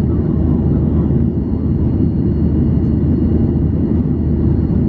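Steady low rumble of a Boeing 737-800's jet engines and airflow heard inside the passenger cabin, with faint steady whining tones above it.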